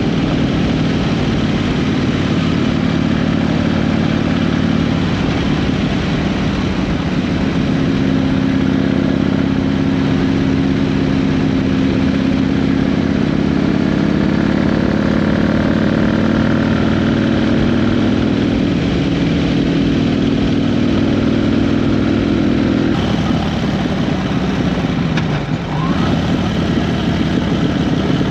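Harley-Davidson V-twin motorcycle running steadily at cruising speed, engine and exhaust under a rush of wind noise. Near the end the engine note drops briefly and then picks back up.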